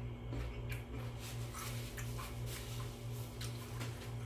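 Close-up eating sounds: irregular soft clicks and smacks of chewing, a few per second, over a steady low electrical hum.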